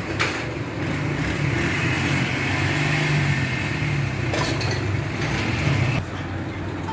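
A motor or engine running steadily, dropping away about six seconds in.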